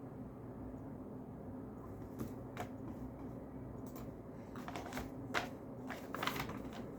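A scattered run of light clicks and rustles, starting about two seconds in and bunching up near the end, over a steady low hum.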